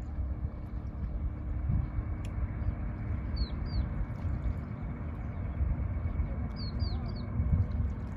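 Small birds chirping, a few short twittering calls in two bunches, about three and a half seconds in and again near seven seconds, over a steady low rumble.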